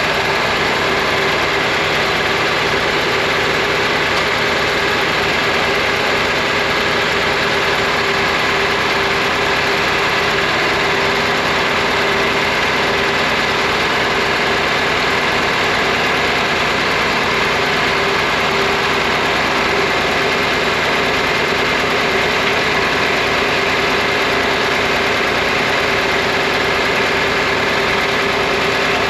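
Tractor engines idling steadily while warming up, a John Deere 4010 among them, with no revving or change in speed.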